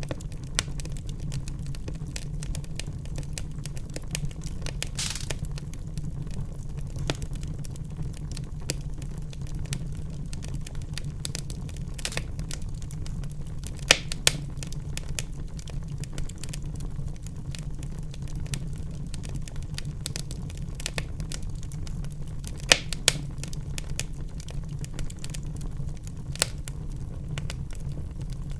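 Fire in a fireplace crackling: scattered sharp snaps and pops over a steady low rumble of the flames, with a few louder pops about halfway through and again about three-quarters of the way through.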